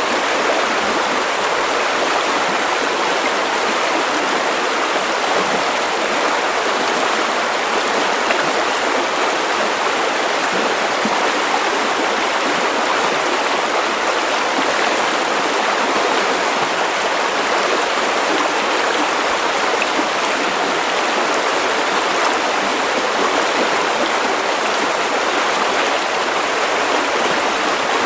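Running water of a river flowing over stones, a steady rushing babble with no pauses or changes.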